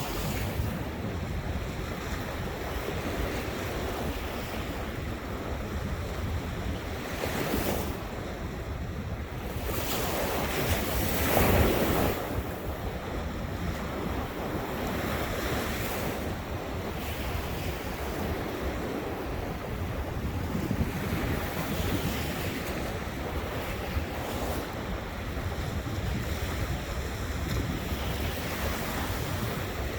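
Ocean surf washing ashore steadily, with wind buffeting the microphone. One wave comes in louder about eleven seconds in.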